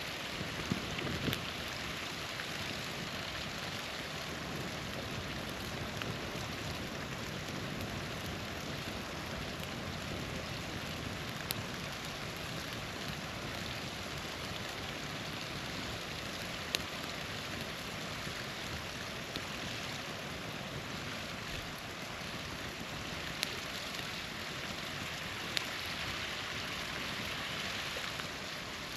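Small waterfall splashing in a steady rush, with a campfire's sharp crackles and pops now and then on top, about half a dozen spread through.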